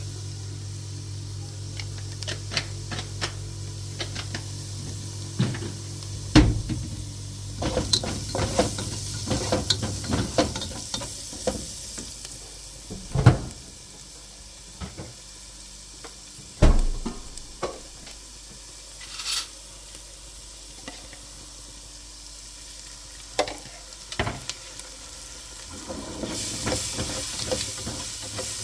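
Food frying and sizzling in a pan while a utensil stirs it, knocking and scraping against the pan at irregular moments. The sizzle swells near the end.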